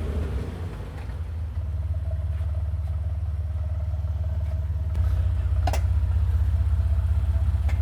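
2005 Jeep Wrangler LJ's 4.0-litre inline-six running through a new MBRP muffler exhaust system, giving a steady low, grunty rumble. The rumble gets louder about five seconds in, and a couple of light clicks sound near the end.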